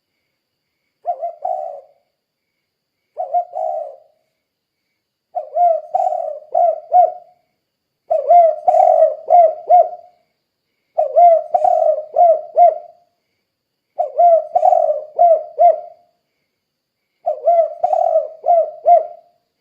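Spotted dove cooing in repeated phrases of several coos each, one phrase about every three seconds. The first two phrases are short, and the later ones run longer, with four or five coos each.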